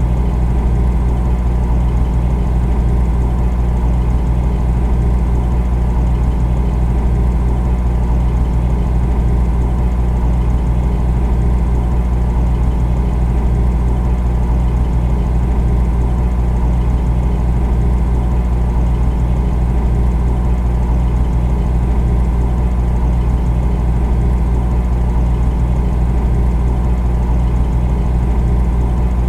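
Refrigerator running: a steady, unbroken low hum with a faint buzz above it.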